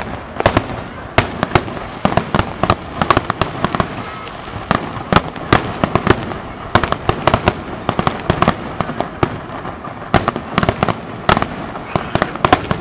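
Fireworks going off in a rapid, irregular string of sharp bangs, several a second, with crackling between them.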